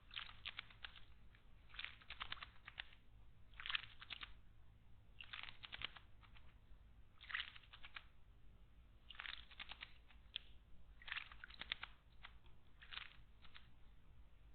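A small bird bathing in a garden stone water basin: faint short bursts of splashing and fluttering, each a quick cluster of strokes, repeating every second or two.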